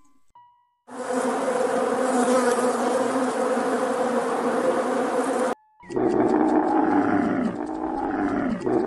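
Swarm of honeybees over open hive frames: a dense, steady buzz that starts about a second in and cuts off sharply after about five seconds. Then a camel calling in low calls that fall in pitch.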